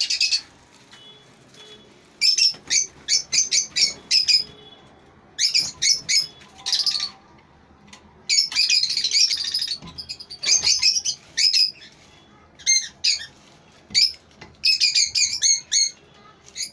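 Lovebirds chattering: rapid high-pitched chirps and squawks in dense bursts lasting a second or two, with short lulls between them.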